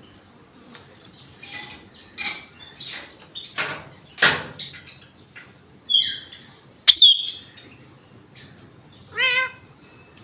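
Indian ringneck parrot making a string of short chattering calls, then a loud sharp squawk about seven seconds in and a wavering, warbled call near the end.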